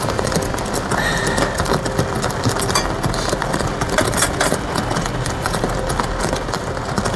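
Heavy rain drumming on a polycotton tarp: a dense, steady patter of many small drop impacts.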